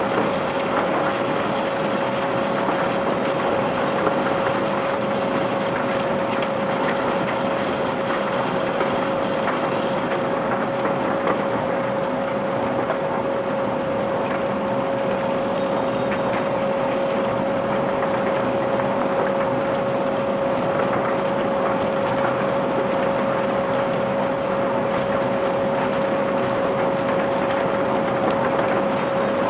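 Ship's conveyor belt unloading bulk cargo: a steady mechanical rattle and clatter of material and rollers with a steady whine.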